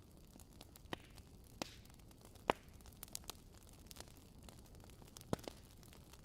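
Wood fire in a fireplace crackling, with a handful of sharp, irregular pops over a low, steady rumble; the loudest pop comes about two and a half seconds in.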